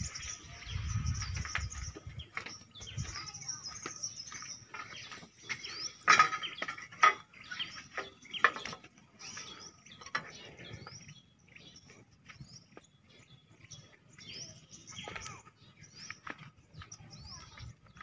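Small birds chirping repeatedly in short high chirps. A few sharp knocks between about six and nine seconds in are the loudest sounds.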